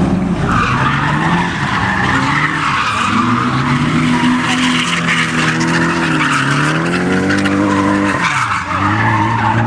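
A drifting car's engine revving up and down under power while its tyres squeal continuously as it slides; near the end the engine pitch falls sharply, then holds lower.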